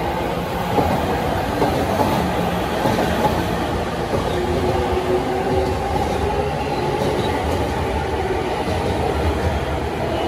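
Two yellow-striped JR Chuo-Sobu Line electric commuter trains passing each other on adjacent tracks: a steady rumble of wheels on rail with clicks over the rail joints.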